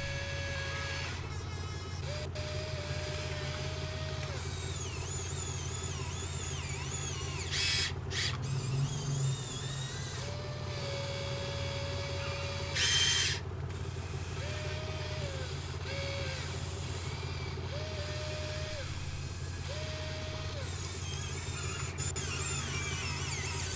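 Radio-controlled hydraulic excavator running: a steady low motor hum, with a higher whine that rises and holds for a second or two at a time as the controls are worked. Two short bursts of hiss come about 8 and 13 seconds in.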